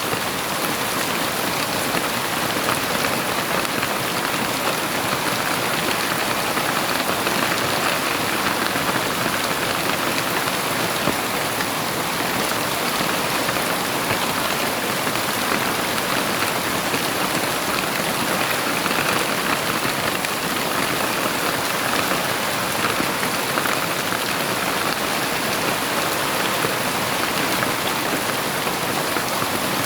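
Heavy rain falling steadily, a dense, even hiss of drops on a surface with no thunder.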